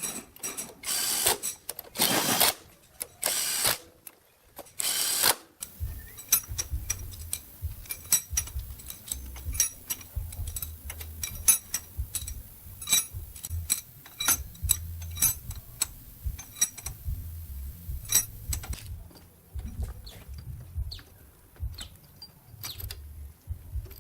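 Metal workshop sounds. Several short hissing bursts come in the first five seconds, then a long run of sharp clicks and taps on metal parts over a low hum.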